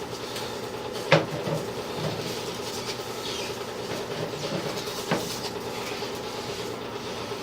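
Sewer inspection camera's push cable being pulled back through the drain line, a steady mechanical rattle and hum, with a sharp click about a second in and another about five seconds in.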